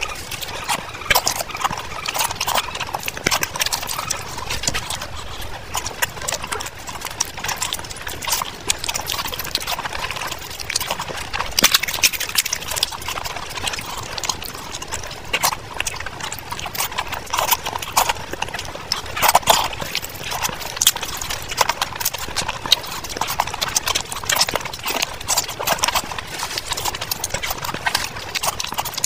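Close-miked eating: continuous wet chewing and lip-smacking with many quick mouth clicks as mouthfuls of rice and fried fish are eaten by hand.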